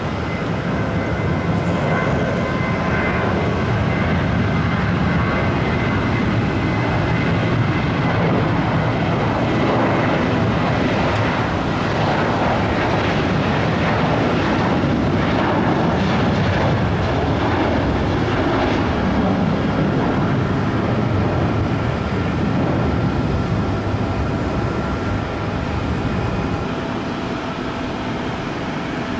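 Airliner's engines running with a loud, steady roar, with a faint high whine over it in the first few seconds that fades out.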